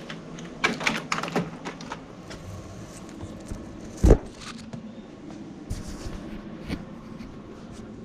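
Clicking and clattering of small metal hardware and tools being handled and rummaged through, with one heavier knock about four seconds in.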